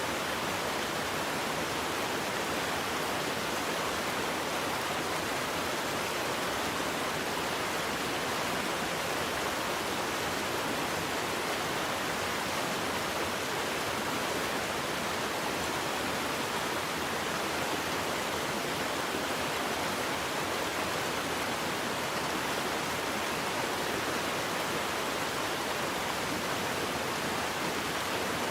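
Waterfall: a steady rushing of falling water, even and unchanging, with most of its weight in the middle and upper range.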